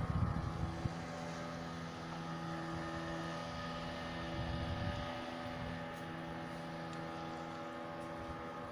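Boat engine running at a steady speed, an even hum with no change in pitch; gusts of wind on the microphone in the first second.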